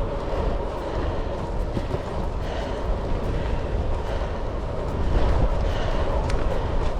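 Wind rushing over a helmet- or bike-mounted action-camera microphone, with road and tyre noise, while riding a road bike at speed. The noise is steady and loud, and eases suddenly at the very end.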